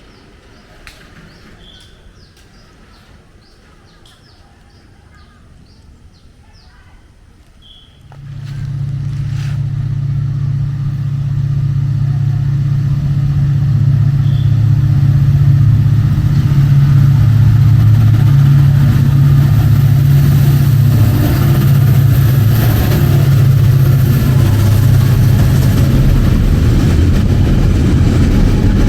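Diesel locomotive engine coming in loud about eight seconds in, a deep steady drone that keeps building for several more seconds and then holds as the train draws near and passes.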